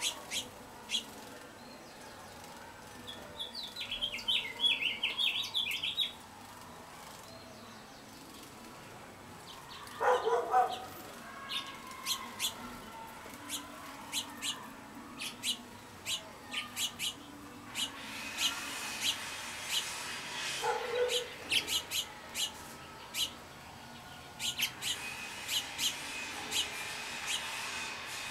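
Wild songbirds chirping and calling, with many short, sharp chirps throughout and a quick twittering phrase about four seconds in. A lower, rougher call comes twice, about ten and twenty seconds in.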